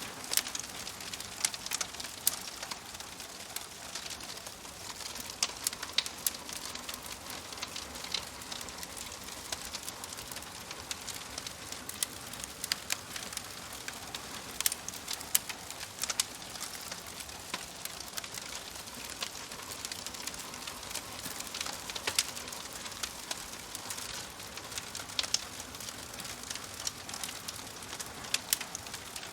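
Wood fire in a fireplace crackling: a steady hiss with frequent sharp, irregular pops and snaps.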